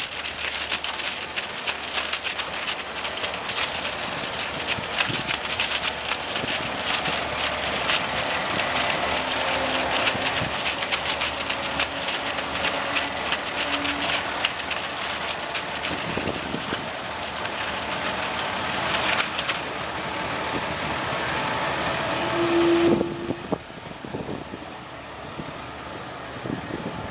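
Diesel train engine running, with a pitch that slowly rises as it pulls away, under heavy wind buffeting the microphone. A short clear note sounds just before the noise drops off sharply near the end.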